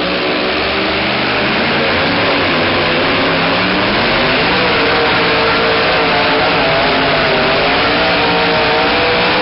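Super modified two-wheel-drive pulling truck's engine running at high revs under full load during a pull. The pitch climbs over the first few seconds, then holds high with a slight waver.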